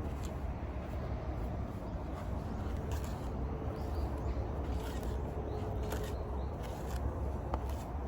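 Outdoor ambience: a steady low rumble like wind on the microphone under a soft hiss, with a few faint scattered clicks.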